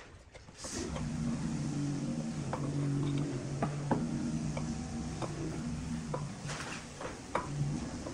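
Wood lathe's electric motor starting about a second in, then running with a steady hum. Light clicks come and go throughout.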